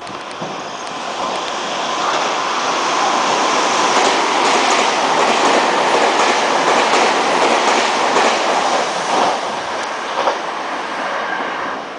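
Meitetsu 3000-series-family electric train passing through a station at speed without stopping. A rushing noise of wheels and running gear builds up, peaks in the middle with its wheels clattering over the rail joints, then fades near the end.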